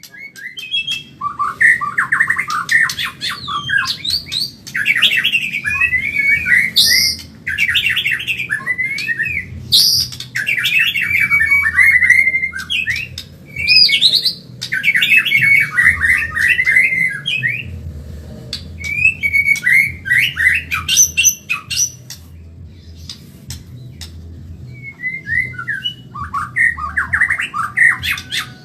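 White-rumped shama (Medan-type murai batu) singing fast, in long runs of rapid trilled and whistled notes broken by short pauses, with a quieter lull about three quarters of the way through before the song picks up again.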